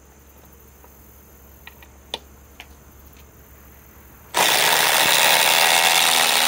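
Two Milwaukee M18 cordless impact drivers, a Gen 4 M18 Fuel and a brushless compact 3651-20, hammering at the same time as they drive fasteners in side by side. A few faint clicks come first, then the loud impacting starts suddenly about four seconds in and runs on steadily.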